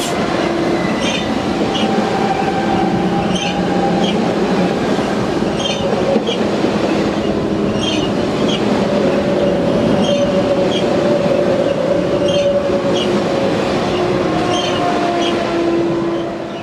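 Deutsche Bahn ICE electric multiple unit passing along the platform. Its wheels click over rail joints in regular pairs about once a second, over a steady electric whine and rolling noise. The sound eases off near the end as the last car goes by.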